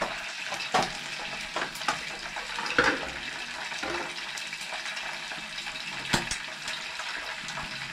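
Chicken pieces frying in hot oil, a steady sizzle with a few sharp clicks and pops.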